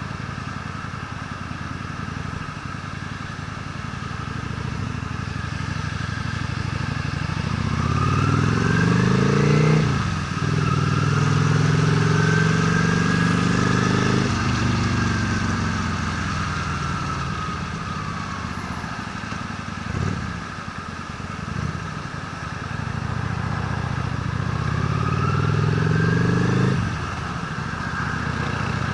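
Honda Steed V-twin motorcycle engine under way. It pulls up in pitch, with drops in engine speed at gear changes near ten and fourteen seconds, eases off, then accelerates again later with another drop near the end.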